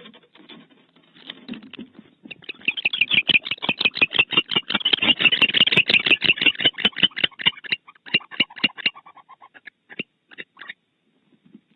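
Barn owl giving a rapid series of clicking pulses, about eight a second, that starts about two seconds in and breaks up into scattered single clicks near the end.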